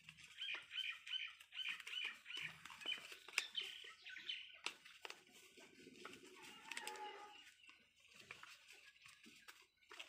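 Birds calling: a quick run of high chirps, about four a second, over the first two and a half seconds, more calls to about four and a half seconds, then a lower, longer call in the middle. Faint paper rustling and clicks come from hands kneading epoxy putty.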